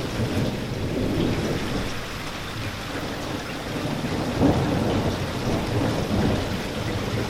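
Steady rain with a low rumble of thunder underneath, briefly swelling louder about four and a half seconds in.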